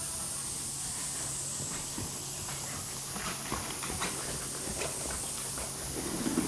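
A horse's hoofbeats during lunging: a run of short, muffled strikes from about halfway through, over a steady hiss. Near the end comes a louder, brief low sound.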